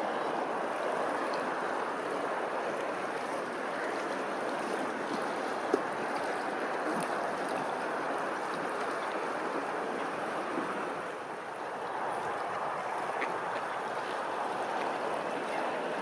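Running water with a steady rushing sound, and one brief sharp tick about six seconds in.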